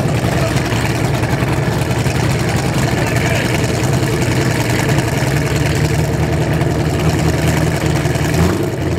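Street race car's engine idling with a choppy, uneven beat, rising slightly in pitch near the end.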